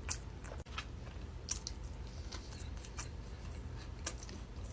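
A person chewing food close to the microphone, with scattered soft mouth clicks and crunches over a low steady hum.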